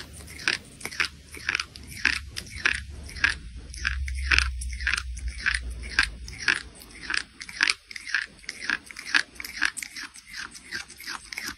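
Crisp food being bitten and chewed: a steady run of loud crunches, about three a second.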